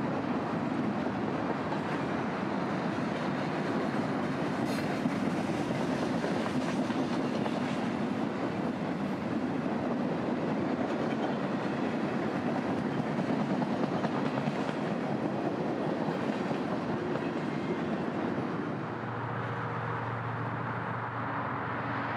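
Freight train box cars rolling past, a steady rumble of steel wheels on the rails with an occasional click over the joints. About three seconds before the end the rumble drops and a steady low hum takes over.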